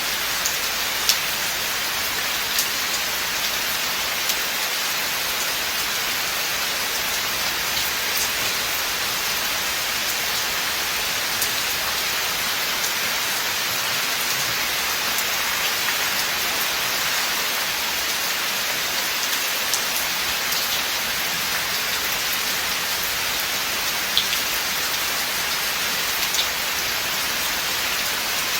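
Steady rain falling in a forest, an even hiss with a few sharper drops ticking close by.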